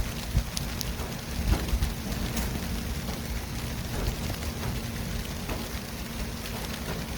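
City traffic ambience: a steady low rumble of traffic under a continuous hiss, with a few sharp knocks in the first two seconds.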